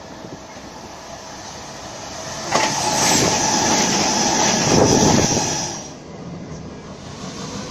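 Sydney Trains OSCar H-set double-deck electric intercity train passing through the platform at speed. The sound builds, then a sudden loud rush of wheel and air noise with a steady tone over it sets in about two and a half seconds in. It lasts about three and a half seconds and then drops away as the train clears.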